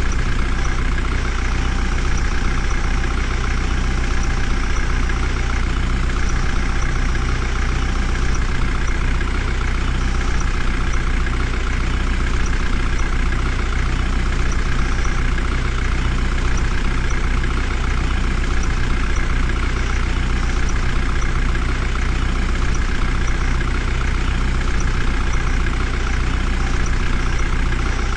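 Heavy vehicle's diesel engine running steadily at an even speed, without revving.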